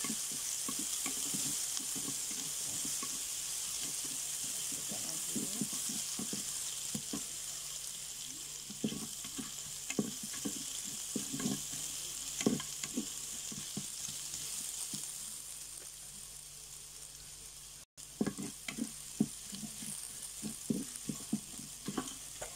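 Garlic, ginger and whole spices sizzling steadily in hot butter in a pot, with a wooden spatula stirring and knocking against the pot in irregular strokes, more often in the second half.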